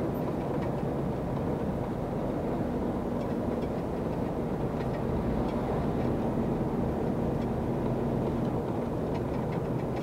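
Truck cab interior noise while driving: a steady low engine drone and road rumble with a faint even hum.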